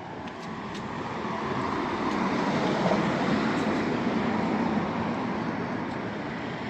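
A vehicle passing on the road, a steady noise that grows louder to a peak about three seconds in and then fades.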